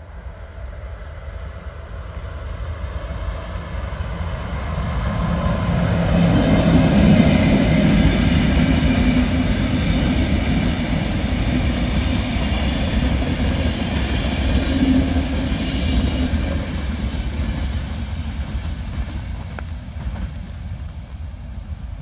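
Passenger train passing on the line: the rumble and rolling noise of its coaches on the rails swell over about seven seconds to a peak, then slowly fade as it moves away.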